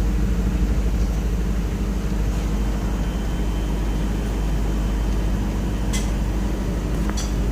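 A steady low mechanical hum, with two short sharp clicks near the end.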